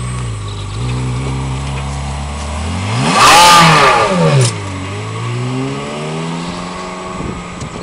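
Ferrari 360 Modena's 3.6-litre V8 running at low revs, then revving sharply up and back down about three seconds in, the loudest moment, before the revs climb gently again.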